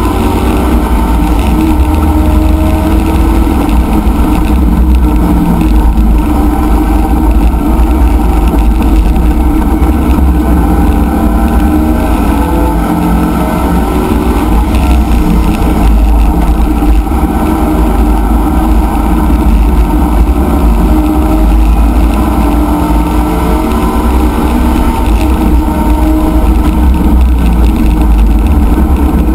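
C5 Corvette's small-block V8 race engine running hard at a steady high road speed, heard from inside the cockpit. The engine's pitch drifts only slightly.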